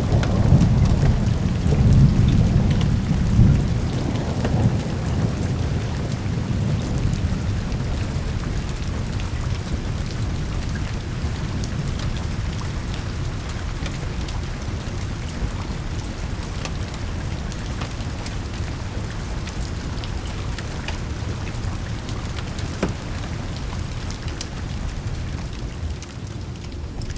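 Thunder rumbling over steady heavy rain; the rumble is loudest in the first few seconds and then fades into a low roll under the rain, which keeps falling with scattered faint clicks.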